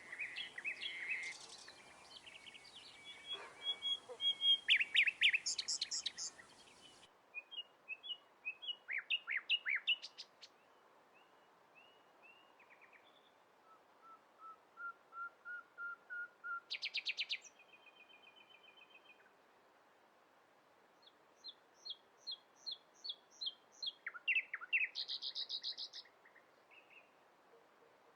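Songbirds singing: a series of short phrases of quickly repeated chirps and trills, separated by brief pauses.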